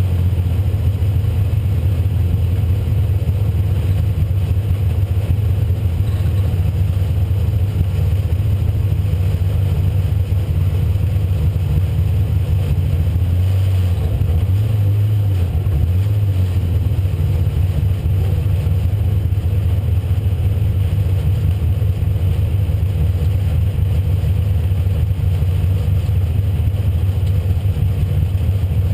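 A 1996 Ford Mustang race car's engine heard from onboard, running at a fairly steady pitch with a brief dip around the middle.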